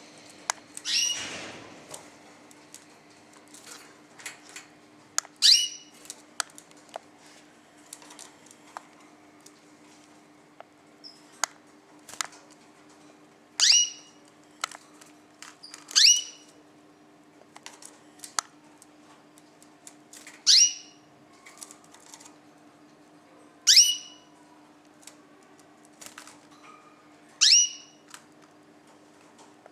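Ornamental cage birds calling: seven loud, short calls a few seconds apart, each sweeping down in pitch, with faint chirps and clicks between them. A steady low hum runs underneath.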